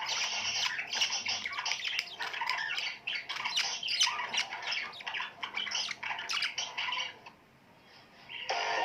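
A group of birds chattering and squawking in a dense run of overlapping short, harsh calls that stops about seven seconds in, followed by one more brief burst of calls near the end.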